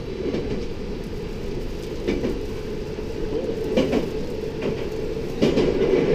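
Passenger train running, heard from inside the carriage: a steady low rumble with a few short knocks from the wheels and car body.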